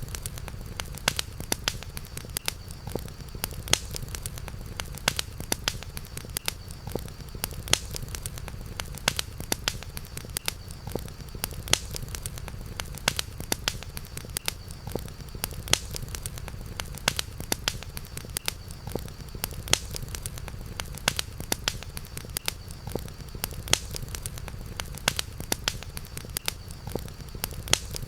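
Campfire crackling: a steady stream of sharp pops and snaps over a low, even rumble, with a faint steady high tone running beneath.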